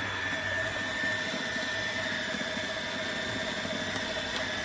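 Shark HydroVac MessMaster cordless wet-dry vacuum mop running, a steady motor whine with a constant high tone over the rush of suction.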